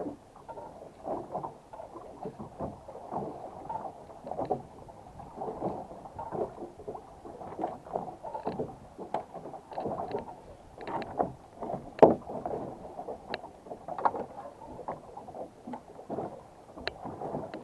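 Irregular knocking and clattering aboard a small boat, with one sharp knock about twelve seconds in, the loudest.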